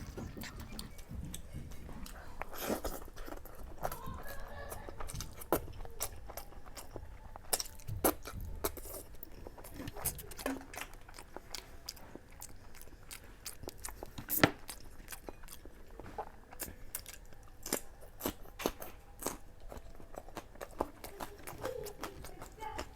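Close-up eating sounds of someone eating boiled eggs with chicken curry: irregular wet chewing, smacks and mouth clicks.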